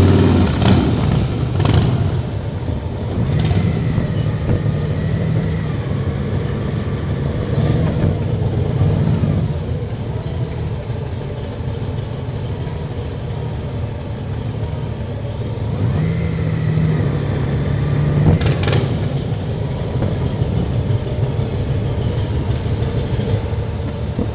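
Motorcycle engine running under way, its note climbing and falling back several times as the rider speeds up and eases off.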